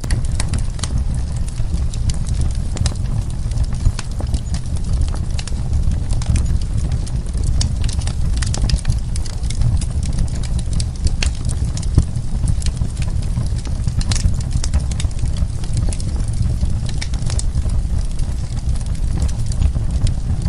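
Wood fire in a fireplace crackling and popping: many irregular sharp snaps over a steady low rumble of burning.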